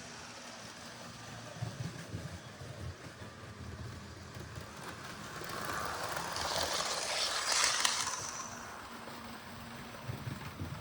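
Model HST train running along the track, its motor and wheels clattering, swelling as it passes close by from about five seconds in, loudest near eight seconds, then fading away.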